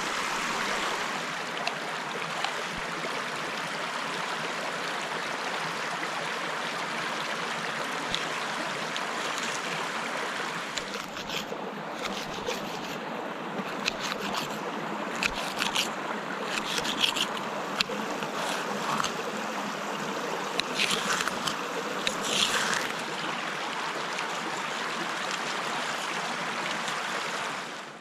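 Steady rushing water, with a scatter of sharp clicks and snaps over it through the middle of the stretch.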